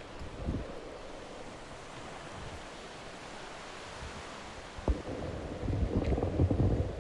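Harbour-side wind and water: a steady wash of wind and lapping water, with a single sharp knock about five seconds in, then gusts of wind buffeting the microphone with low rumbling near the end.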